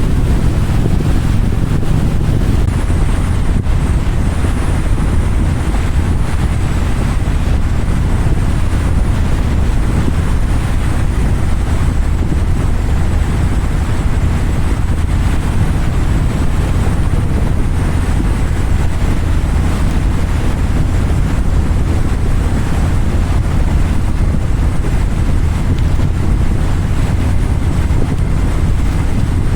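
Steady wind rushing over the microphone on a moving motorcycle, with the engine and road noise running underneath.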